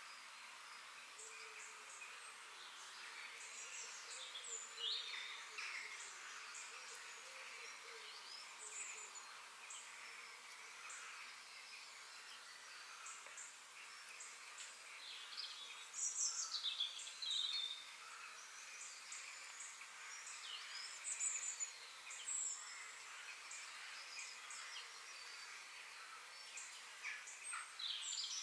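Several forest birds chirping and singing over one another in short high chirps and quick falling notes, with a few louder phrases in the second half.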